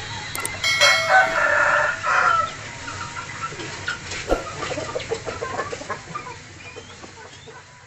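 A rooster crows once, loudly, about a second in, followed by scattered short bird chirps that fade out toward the end.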